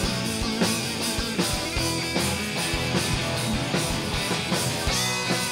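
Rock band playing an instrumental passage between sung lines: guitar chords over a steady drum beat.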